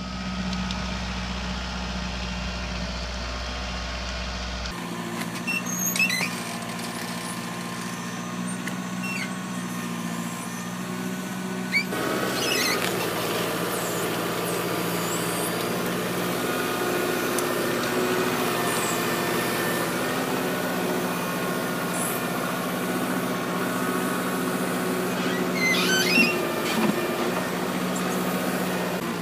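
Kubota 47 hp tractor's diesel engine running steadily while the BH92 backhoe works, with a few short squeaks and clanks from the backhoe. The engine sound shifts abruptly twice, about five and twelve seconds in.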